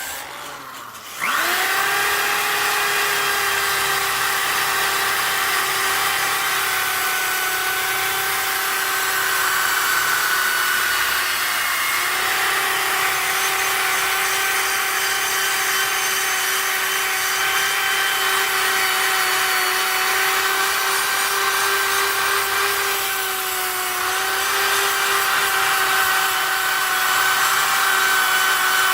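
Electric power tool spinning up with a quick rising whine about a second in, then running steadily with an abrasive hiss as it grinds old powder coat and rust off the winch parts. The pitch dips slightly twice under load.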